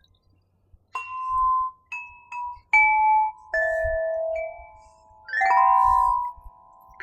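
Crystal harp: a series of struck notes of different pitches, about eight in all, each ringing on as a clear sustained tone, with the later notes overlapping into a chord near the end.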